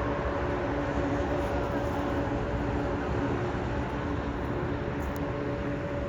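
Jet aircraft engines running, a steady rumble with a droning hum of several unchanging tones.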